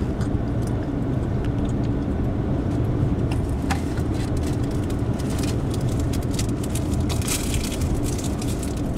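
Car driving on a snow-covered road, heard from inside the cabin: a steady low rumble of engine and tyres, with scattered light ticks and clicks that grow more frequent in the second half.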